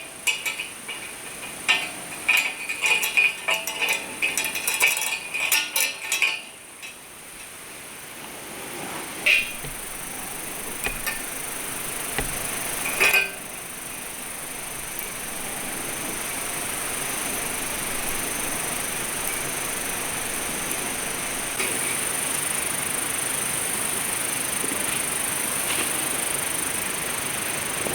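Metal camp cookware or utensils clinking and tinkling in quick runs for about six seconds, then two single clinks, followed by a steady hiss.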